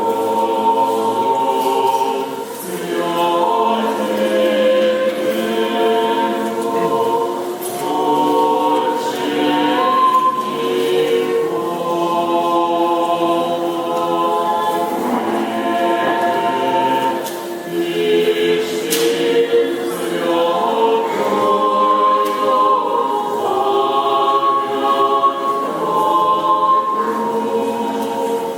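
Unaccompanied choir singing Orthodox church chant: several voice parts held in sustained chords, phrase after phrase with short breaks between.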